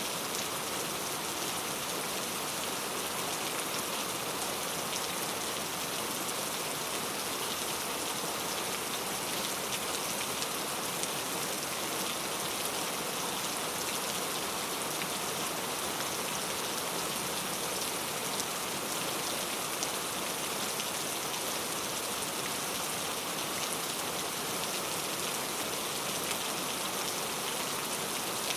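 Heavy rain falling steadily, a dense even hiss with fine drops pattering on surfaces.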